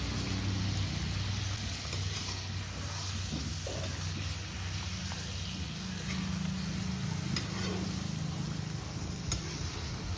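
Chicken pieces frying in oil in a metal karahi, sizzling steadily, while a slotted metal spatula stirs them and scrapes the pan.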